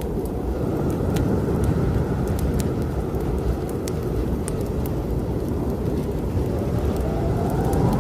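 Strong snowstorm wind blowing in a steady low rush, with sharp crackles and pops of a wood fire in a fireplace over it. Near the end a gust rises into a whistle.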